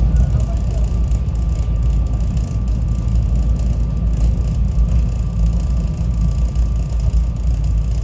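SEPTA Regional Rail electric train running along the track: a steady low rumble with a faint steady whine above it.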